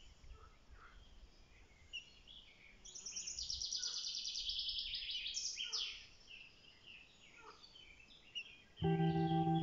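Small birds calling outdoors: scattered high chirps, with a fast, high trill lasting about three seconds near the middle. Guitar music comes in near the end.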